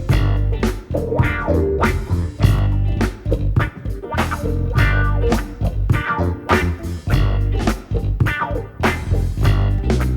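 Live rock band playing an instrumental intro: electric guitars over a bass guitar line and drums with a steady beat.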